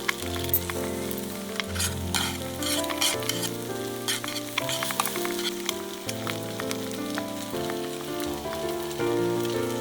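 Egg frying in a small stainless steel pot, a steady sizzle with crackling pops, over background music.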